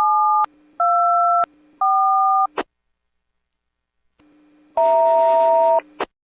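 Three short electronic beeps, each two pitches sounding together like touch-tone phone keys, one after another. After a pause of about two seconds comes one longer two-pitch tone with a hiss behind it.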